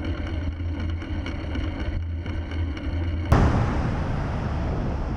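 Steady low drone of vehicle engine and road noise picked up by a dashcam. About three seconds in, a sudden sharp bang, followed by a louder, steady rushing noise.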